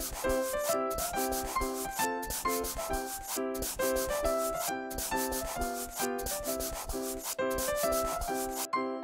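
Scratchy pen-on-paper drawing sound effect in quick repeated strokes, over a simple children's tune; the scratching stops near the end.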